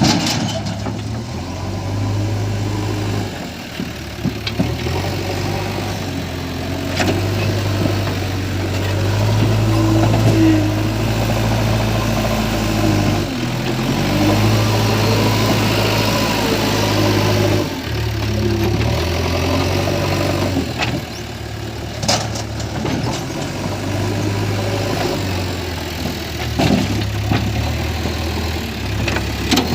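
Diesel engine of a JCB 3DX backhoe loader running and revving up and down in steps as it works its loader, with a few sharp clanks along the way.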